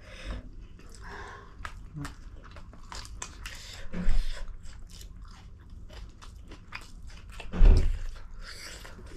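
Close-miked chewing and biting of food, with many short wet clicks and smacks. There are two louder, deeper knocks, about four seconds in and near the end.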